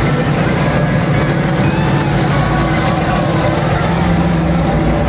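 Chevrolet Camaro SS V8, fitted with the big-block 396 that its plate names, rumbling steadily at low revs as the car creeps past.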